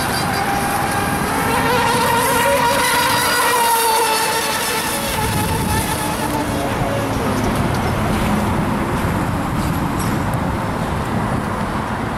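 Fast radio-controlled speedboats running at speed: a high motor whine that rises and falls in pitch as the boats pass, with a steady rushing noise underneath.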